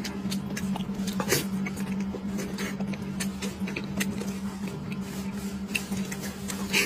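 Close-miked eating sounds: irregular small clicks and smacks of chewing and mouth noises, over a steady low hum.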